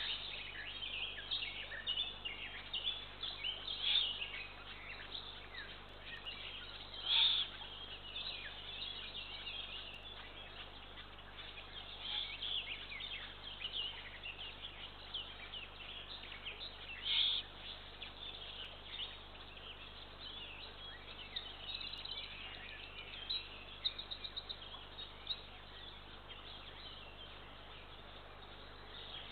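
Small wild birds chirping and singing, many short calls overlapping, with two louder, noisier calls about seven and seventeen seconds in and a quick run of ticks near the end.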